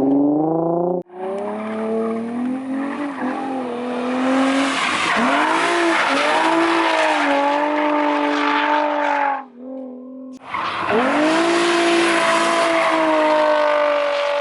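Drift car's engine revving hard with tyres squealing through slides. The engine note climbs and drops off sharply about a second in, then runs with long stretches of tyre screech, broken by a short lull about two-thirds of the way through.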